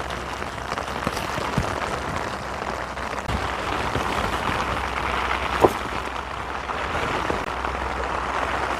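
Heavy rain falling steadily, a dense hiss with scattered drops ticking close by, the sharpest about five and a half seconds in. Strong wind rumbles low on the microphone underneath.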